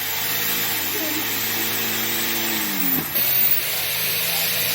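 An electric power tool motor runs steadily with a whirring hum. About three seconds in its pitch drops as it winds down, then it speeds straight back up and runs on.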